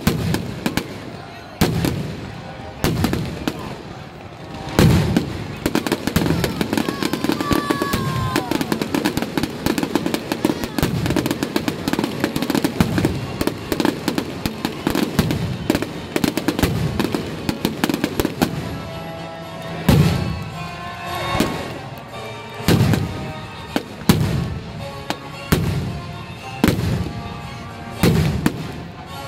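Fireworks display: aerial shells bursting overhead, with a dense run of rapid bangs and crackle through the middle, then separate loud booms about every one and a half seconds near the end.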